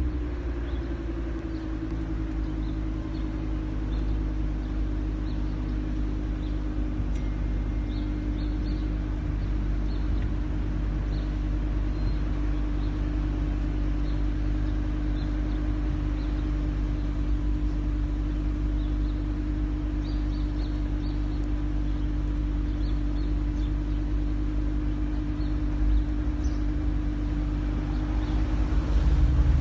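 Lamborghini Huracán's V10 engine and road noise heard from inside the cabin while driving: a steady drone that holds one pitch.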